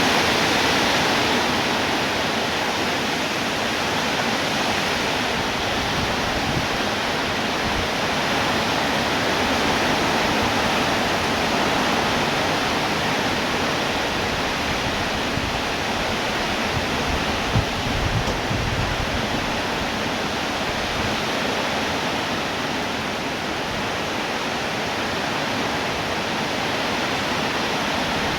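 Rain falling steadily, an even, dense hiss with no let-up. A brief low knock stands out about two-thirds of the way through.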